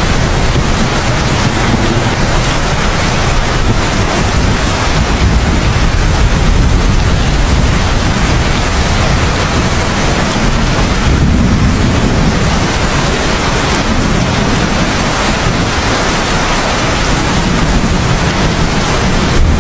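Heavy, steady rain with a deep rumble underneath that swells and eases slowly, like a continuous roll of distant thunder.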